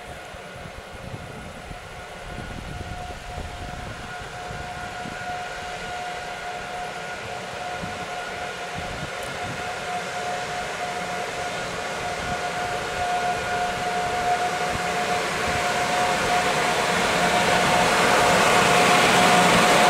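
Electric-hauled passenger train, led by a PKP Intercity Siemens EU44 Husarz locomotive, approaching. The sound grows steadily louder, with a steady high-pitched whine throughout and the rush of wheels on rails swelling strongly near the end as the train draws close.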